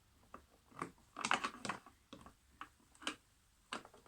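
Tools clicking and tapping against a hard object while it is checked for a leak: a quick irregular run of light clicks, densest about a second in.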